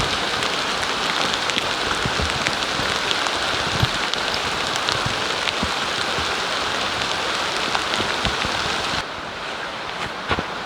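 Rain pattering steadily on a surface, with scattered louder drop hits. About nine seconds in it cuts to a quieter, steady rush.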